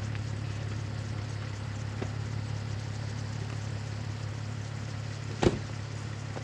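Volkswagen Jetta's 12-valve VR6 idling through a Borla non-resonated cat-back exhaust, a steady low drone. A single sharp knock near the end.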